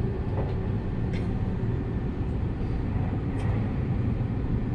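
Seibu Laview limited-express electric train running at speed, heard from inside the cabin: a steady low rumble of wheels on rail, with a few faint clicks.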